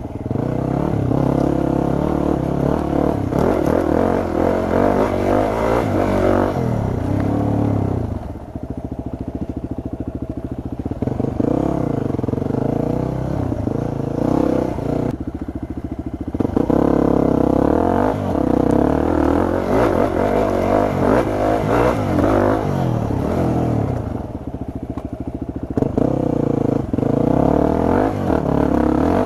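Yamaha WR250 dirt bike engine being ridden, revving up and down with the throttle so its pitch rises and falls repeatedly. It eases off briefly twice.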